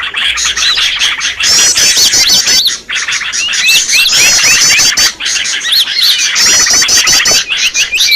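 Many small songbirds chirping and whistling over one another in a dense chorus, with a rapid high trill that comes back every couple of seconds. It is a lure call recording used to attract small birds.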